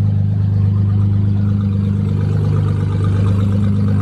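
Car engine running with a loud, steady low rumble, and a little more mid-range engine noise partway through.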